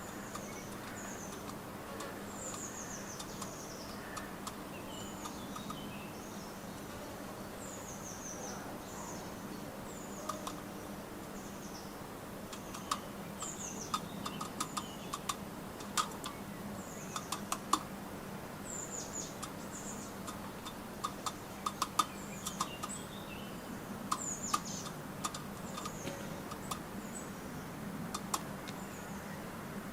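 Garden songbirds calling, short high notes sliding down in pitch and repeated about once a second, with sharp tapping clicks joining from about halfway in as birds peck at nuts.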